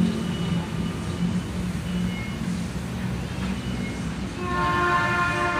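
Low, steady rumble of an electric commuter train running through the station, with a faint high whine over it. About four and a half seconds in, a held sound of several steady tones joins it.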